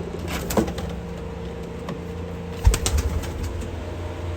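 Racing pigeons in a loft flapping their wings, with a loud flurry of wing beats and knocks about two and a half seconds in, over a steady low hum.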